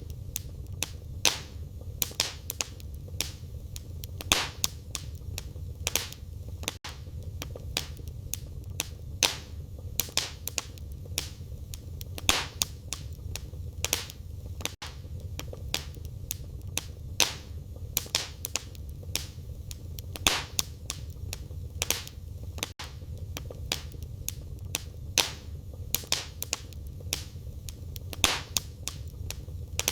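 Wood fire burning in a fireplace: firewood crackling and popping irregularly, with sharp snaps over a steady low rumble of flames.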